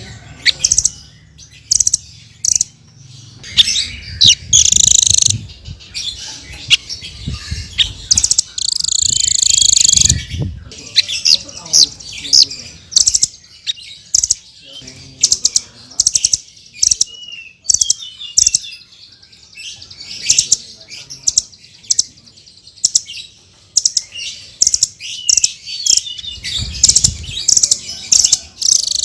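Blue-crowned hanging parrot (srindit) singing: a fast run of shrill, high-pitched chirps and tweets, with two longer buzzy trills about four and nine seconds in.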